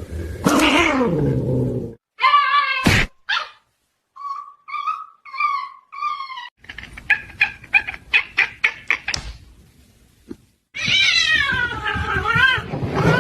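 A cat meowing and yowling in a string of separate calls with abrupt gaps: a long falling meow, four short meows in a row, a quick run of short cries, then a long wavering yowl near the end.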